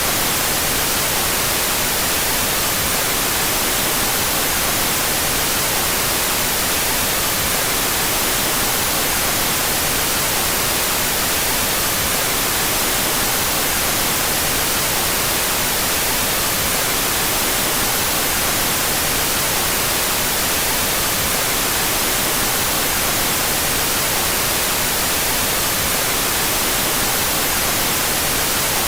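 Synthetic white noise, the left and right channels out of phase, playing as a steady, even hiss with no change.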